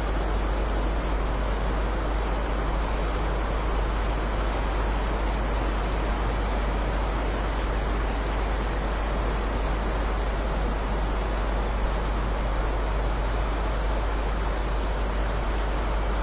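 Heavy rain falling as a steady, unbroken hiss with a deep constant rumble underneath.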